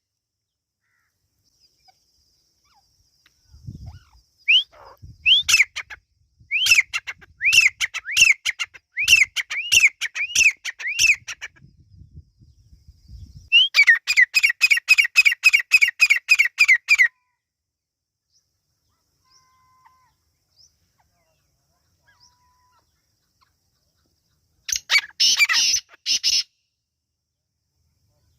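Teetar (francolin) calling in runs of short, high, arched notes: about two a second at first, then a faster run of about four a second, and a brief burst of calls near the end.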